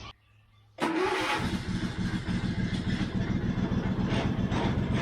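The Cub Cadet 1022 ride-on mower's engine starts abruptly about a second in and runs on with a steady, even beat.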